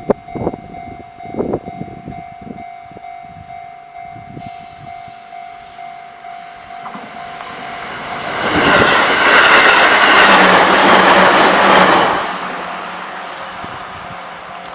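Train passing over a level crossing at speed: the rush of wheels on rail builds from about eight seconds in, stays loud for about four seconds, then fades. A steady tone from the crossing's warning signal sounds under it.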